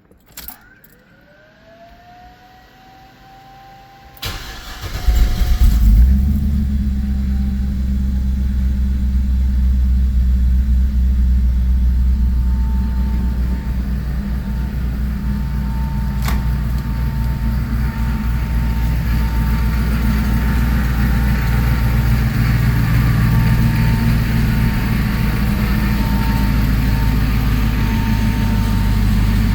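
Car engine starting through its exhaust: a few clicks and a faint rising whine, then cranking about four seconds in, catching with a brief loud flare, and settling into a steady, deep idle.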